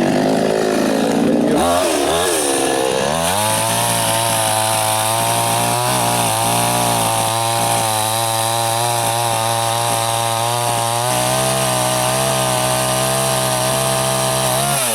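Soyuz petrol chainsaw revving up over the first few seconds, then held steadily at high revs as it saws through a waterlogged log.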